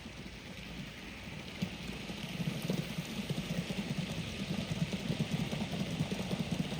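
Gauge 1 live-steam model locomotive running on the track, a fast patter of exhaust beats and wheel clatter with a hiss of steam, growing louder as it approaches.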